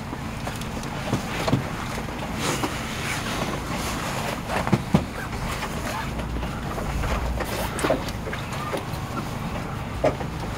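Kintetsu limited express train rolling slowly along the terminal platform and coming to a stop, heard from inside the car: a steady low rumble with scattered clicks and knocks.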